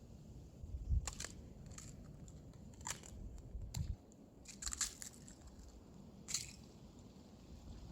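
Footsteps crunching in snow, a crunch roughly every second at an uneven walking pace.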